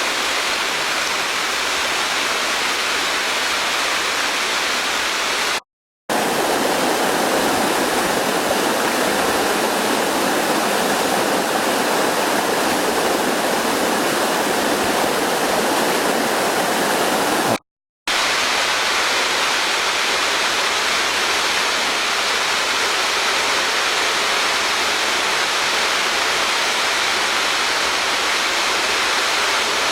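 Waterfall pouring: a steady rush of falling water. It cuts out briefly twice, about six and eighteen seconds in, and the middle stretch between the cuts sounds fuller and deeper.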